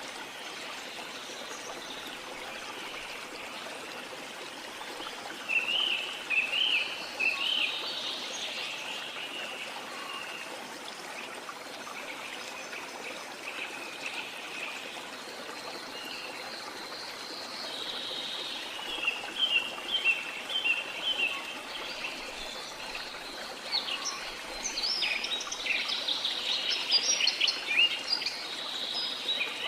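Rainforest ambience: a steady wash of falling or running water under bird calls. The birds chirp in quick clusters about six seconds in, again around eighteen to twenty-one seconds, and busiest near the end.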